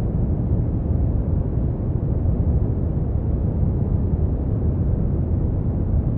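Continuous brown noise: a steady, deep rumbling hiss, strongest in the bass and fading toward the treble, unchanging throughout.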